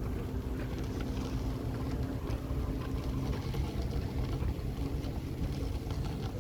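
Outdoor ambience dominated by an irregular low rumble of wind buffeting the microphone, with a faint steady hum in the first half and scattered light ticks.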